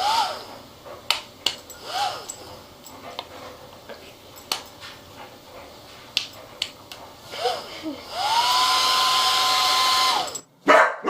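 A dog gives a few short rising-and-falling whines amid scattered clicks. Then a hair dryer switches on, its motor whine climbing quickly to a steady pitch over a hiss of blowing air for about two seconds before it cuts off, followed by a loud short burst near the end.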